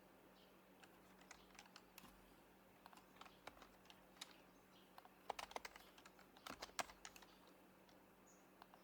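Quiet typing on an HHKB Professional Hybrid Type-S keyboard, its silenced Topre switches giving soft, muted keystrokes. A few scattered keystrokes come first, then a quicker burst of typing past the middle.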